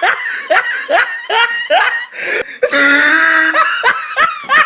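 A person laughing hard in short, high-pitched bursts repeated every third to half second, with a longer held note about three seconds in before more bursts.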